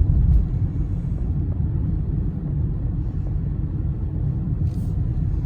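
Steady low rumble of a car being driven slowly, engine and tyre noise heard from inside the cabin.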